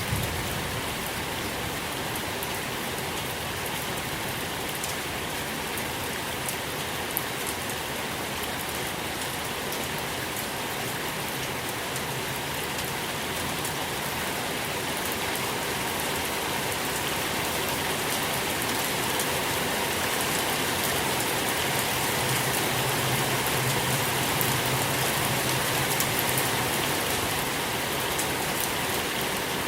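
Steady soft rain falling, an even hiss with scattered fine drop patter, growing slightly louder in the second half.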